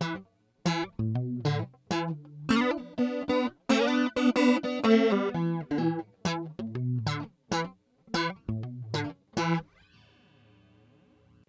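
Electric guitar played through a JHS 3 Series Flanger pedal: short, choppy picked chords and notes that stop about ten seconds in, leaving a faint hum from the amp.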